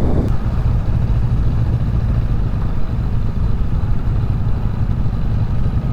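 Honda Rebel 500 parallel-twin engine running steadily while riding, with a low, even rumble and wind noise over the microphone.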